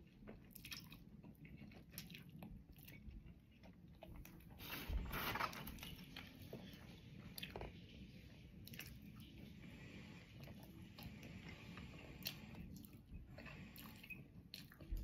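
A person chewing and biting fried food close to the microphone, with small wet clicks and crunches and a louder burst of crunching about five seconds in.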